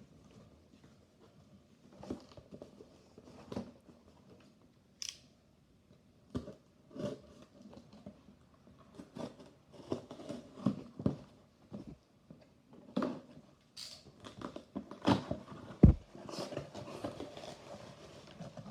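Diecast toy-car packaging being handled: irregular crinkling of plastic blister and cardboard, with scattered clicks and knocks, the sharpest about three quarters of the way through.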